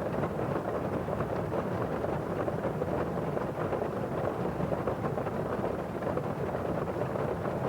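Heavy rain drumming steadily on a roof, heard from inside, a dense muffled patter with no let-up.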